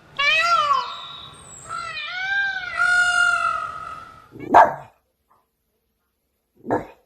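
A pet animal calling: several drawn-out, whining calls that rise and fall in pitch, then two short, sharp yelps about two seconds apart.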